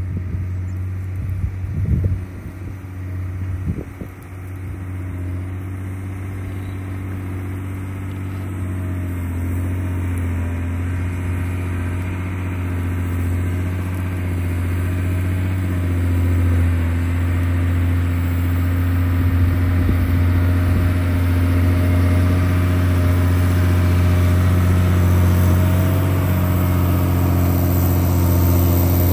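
John Deere 670 GP motor grader's diesel engine running steadily and growing gradually louder, with a couple of brief knocks in the first few seconds.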